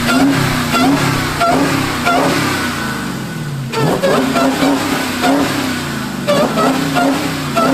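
Car engine being revved over and over in quick, regular blips, easing off briefly a little past halfway.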